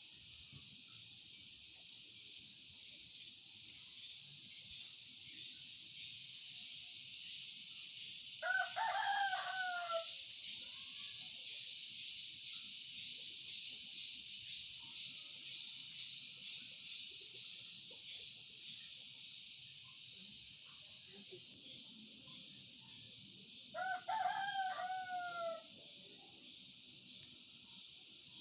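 A rooster crows twice, about fifteen seconds apart, each crow about a second and a half long and dropping in pitch at the end, over a steady high hiss.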